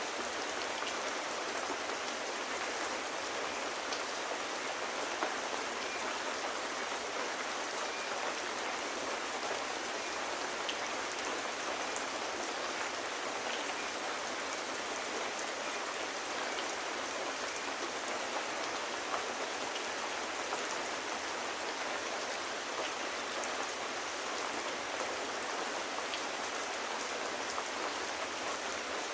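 Steady rain falling, an even hiss with a few faint ticks of single drops scattered through it.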